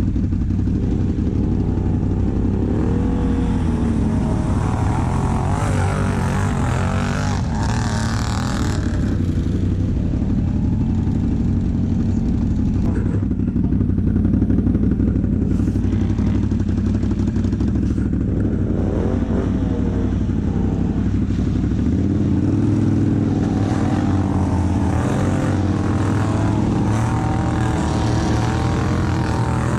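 ATV engine running steadily for the whole stretch, its pitch rising and falling slightly with the throttle.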